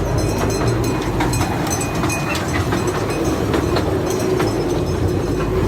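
Steady mechanical running with a constant hum and frequent short clicks.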